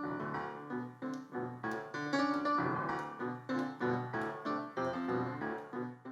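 Piano playing an instrumental introduction: rhythmic repeated chords, about three a second, with a busier run of notes in the middle.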